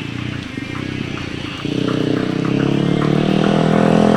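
Small lawn mower engine running steadily, rough and uneven for about the first second and a half, then smoothing out and slowly getting louder.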